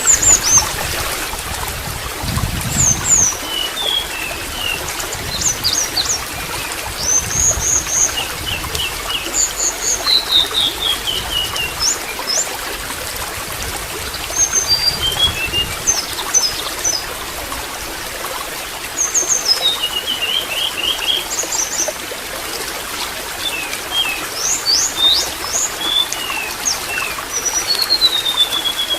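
Water trickling steadily, with small songbirds chirping over it in clusters of short high chirps and quick descending trills every few seconds.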